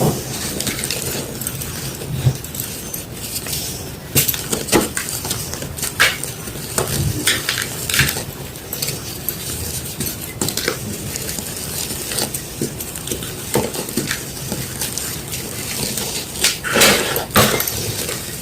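Gym chalk being crushed by hand: a steady crumbling crackle with sharp crunches every second or two, several close together near the end.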